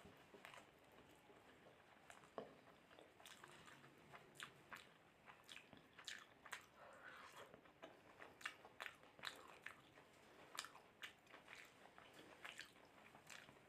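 Faint close-up chewing of mutton curry and rice, with irregular wet mouth clicks and lip smacks, a few a second.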